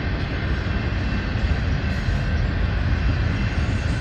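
Autorack freight cars rolling past on the rails: a steady, loud low rumble of wheels on track.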